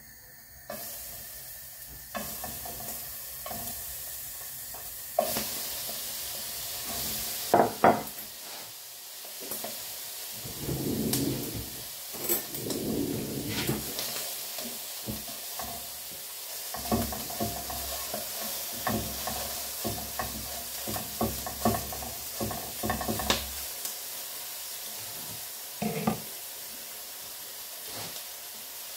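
Chicken, potatoes and cauliflower sizzling in a granite-coated pan on a gas burner, a steady hiss. Short knocks and scrapes of a utensil against the pan come in bunches as the food is stirred, most of them in the middle of the stretch.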